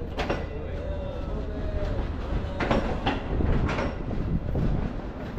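Passenger train coach rolling slowly along the track: a steady low rumble of the wheels on the rails, broken by a few sharp clanks, one near the start and three in a row past the middle.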